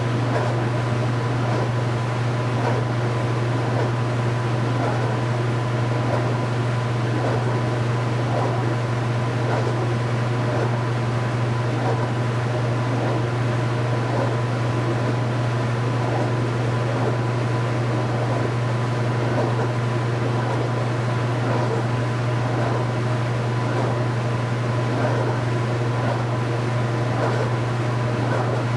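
Speed Queen 8 Series top-load washing machine running through a heavy-duty cycle, a steady, unbroken machine hum with a faint thin tone above it.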